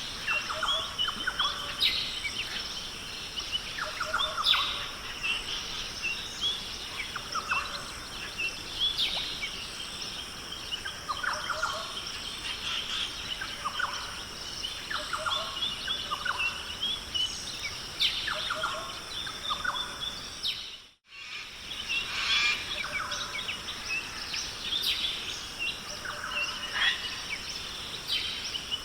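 Many birds calling and chirping at once, short overlapping calls one after another. The sound drops out completely for a moment about two-thirds of the way through, then the calling resumes.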